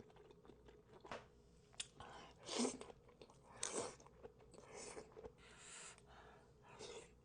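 A person chewing seafood boil, with wet mouth smacks and crunchy bites that come in short bursts about once a second.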